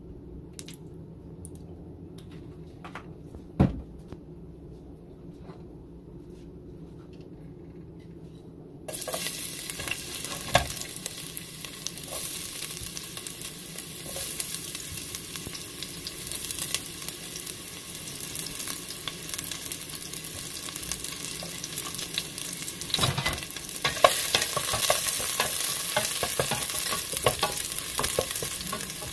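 Chopped garlic frying in hot oil in a stainless steel stockpot: quiet at first apart from one knock, then about nine seconds in a steady sizzle starts suddenly and carries on. A wooden spoon stirs and scrapes the pot, with scattered knocks.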